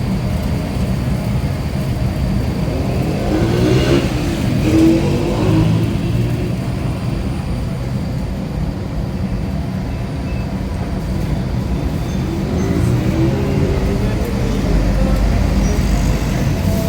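A motor vehicle's engine running steadily, its pitch rising and falling twice: about four seconds in and again near the end.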